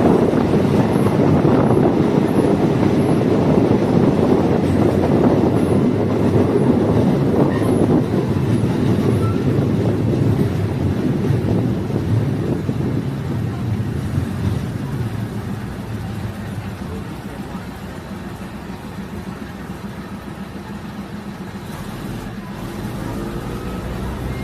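Diesel multiple unit train running on the rails, a steady rumble of wheels and engine that grows quieter from about ten seconds in and stays lower near the end.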